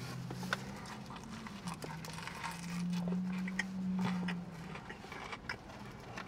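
A person chewing a bite of a sub sandwich with the mouth closed: small wet clicks and crunches. A low hum runs through most of it, loudest around the middle, and fades out near the end.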